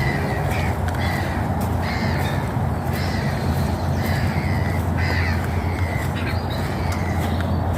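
A bird calling over and over, short harsh calls about once a second, over a steady low hum.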